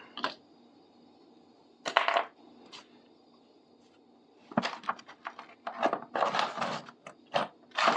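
Loose metal hand tools, sockets and drill bits clinking and rattling as they are picked out of a bucket and set down, with a clatter about two seconds in and busy rummaging from about halfway.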